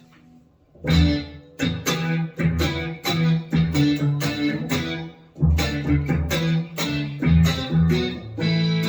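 Electric guitar played through a Boss SY-200 guitar synth pedal on its Square Lead preset: a quick run of synth lead notes starting about a second in, with a brief break around five seconds in.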